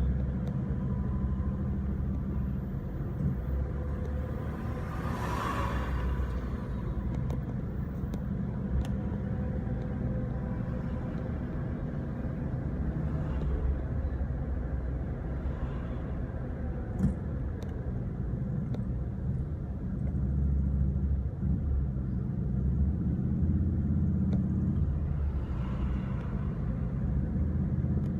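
Steady low road rumble and engine noise of a car driving, with a brief rushing swell about five seconds in.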